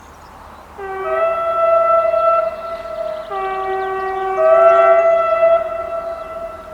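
ÖBB Class 2050 diesel locomotive's two-tone horn sounding two long blasts, the low and high notes starting a moment apart in each blast.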